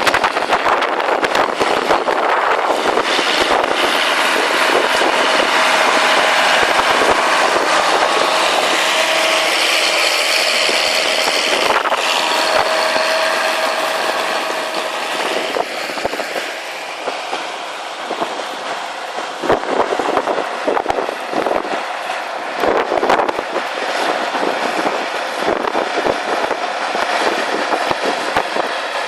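Diesel engines of County four-wheel-drive tractors running under load while pulling ploughs, a steady mechanical drone, somewhat quieter from about halfway on.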